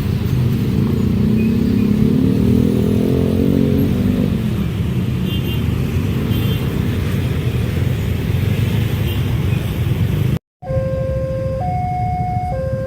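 A train passing over a level crossing: a loud, steady low rumble of wheels and engine, with a pitched engine tone rising and falling between about one and four seconds in. After an abrupt cut near the end, a level-crossing warning alarm sounds two alternating tones, switching about once a second.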